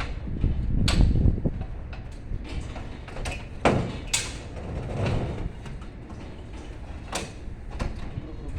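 Knocks, bumps and scraping from an air conditioner unit being handled and set down, over low rumbling handling noise, with the sharpest knocks about a second in, around four seconds and around seven seconds.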